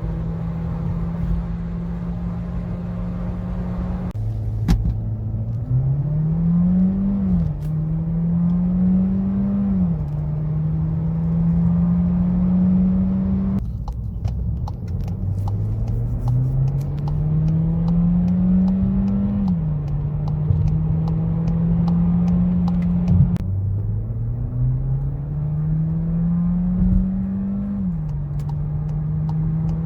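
Skoda Karoq 1.5 TSI turbo four-cylinder engine pulling hard under acceleration. Its note rises steadily and then drops sharply at each quick DSG upshift before climbing again. The pattern repeats over three separate acceleration runs, with the engine holding a steady note between them.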